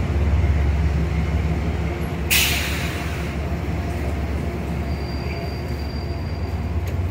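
Amtrak passenger train rolling slowly past along the platform with a steady low rumble. A sudden hiss of air comes about two seconds in and fades within a second.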